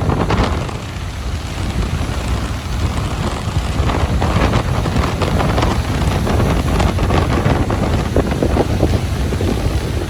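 Ocean surf washing onto a beach, a continuous rushing hiss that swells and eases, with wind buffeting the microphone and adding a heavy low rumble.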